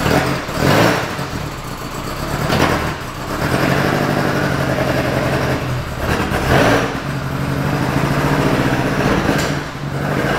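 Lancia Fulvia Zagato 1600's V4 engine running just after starting, blipped on the throttle about four times between steadier running.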